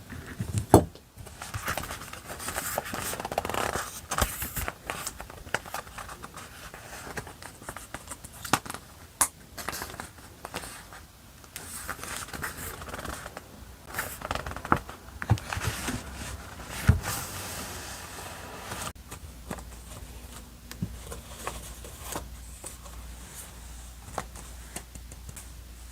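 Paper-crafting handling sounds: paper and stickers rustling and scraping, with scattered sharp taps and clicks. It is busiest in the first half, with a loud click near the start and another about 17 s in, then quieter handling.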